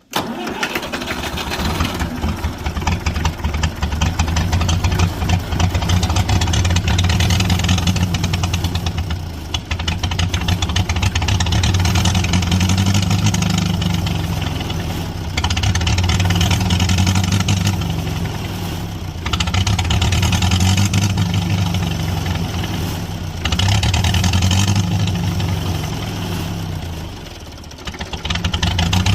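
International Harvester B-275 tractor's diesel engine running after its first start, its speed repeatedly rising and falling back every few seconds.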